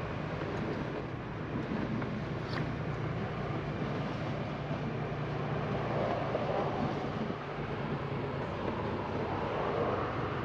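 Semi truck's diesel engine and road noise droning steadily inside the cab while driving, with a short click about two and a half seconds in.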